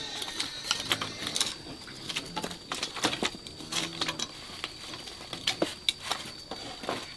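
A series of irregular light clicks and taps, with a thin steady high tone underneath.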